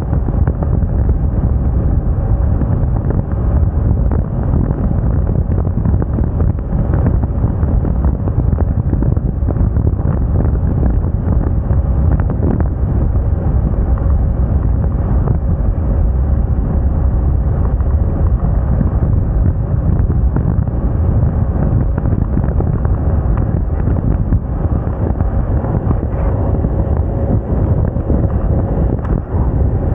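Wind buffeting the microphone on a moving scooter, over the steady hum of the Moda Moca 110's engine.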